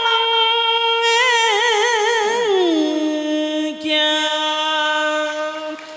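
A singer drawing out the words 'mong… chờ' in a vọng cổ (cải lương) phrase. The voice wavers on a long high note, then slides down to a lower note held steadily for several seconds.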